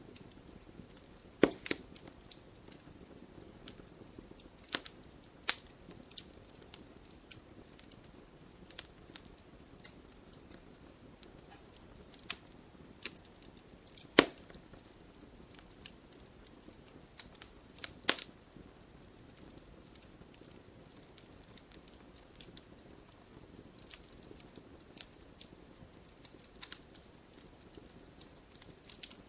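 Wood fire burning in a fireplace: irregular crackles and sharp pops over a soft steady hiss, with the loudest pops in the first twenty seconds and sparser, lighter crackling after.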